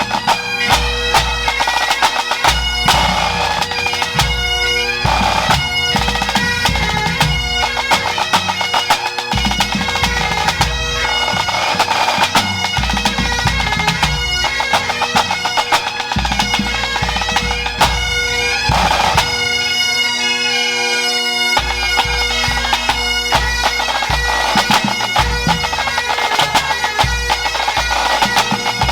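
Pipe band of Great Highland bagpipes playing a tune over their steady drones, with snare and bass drums keeping time.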